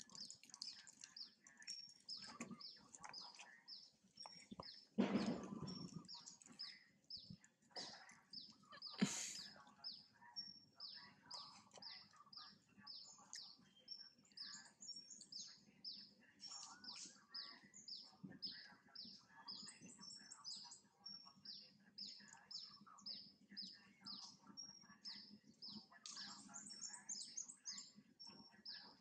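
Small bird chirping: a short high falling note repeated steadily two or three times a second, with brief twittering trills now and then. A louder rustling noise comes about five seconds in, and a short sharp sound about nine seconds in.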